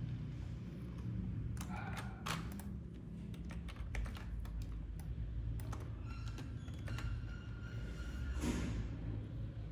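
Computer keyboard keys and clicks tapped at an irregular pace over a steady low hum.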